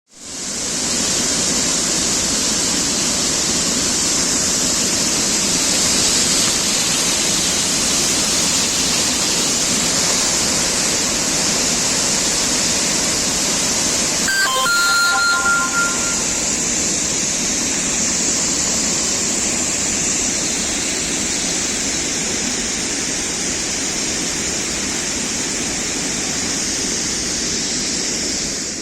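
Waterfall rushing steadily, a constant loud hiss of falling water. About halfway through, a brief high whistle-like call sounds over it for a second or two.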